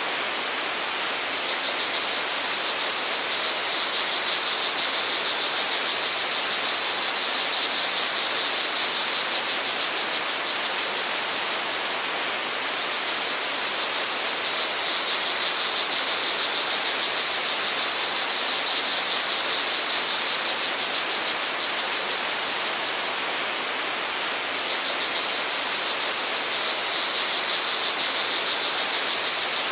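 Steady rush of flowing water from a forest stream or waterfall. Over it, crickets trill in a fast, high, pulsing chirr that swells and fades three times.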